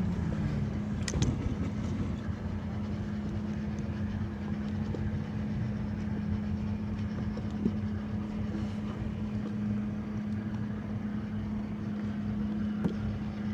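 A steady mechanical hum holding one pitch throughout, over an even background rumble like distant engines or traffic, with a brief click about a second in.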